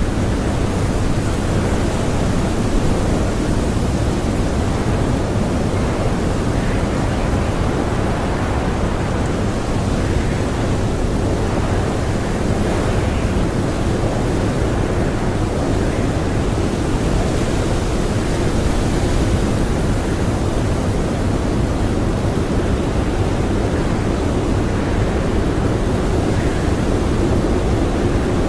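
Blizzard wind blowing steadily: a dense, even rush of noise, heaviest in the low end, swelling slightly now and then.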